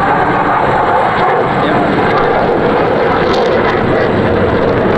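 Jet noise from an F-15 Eagle fighter flying over, a steady, loud rush of engine sound that holds without a break.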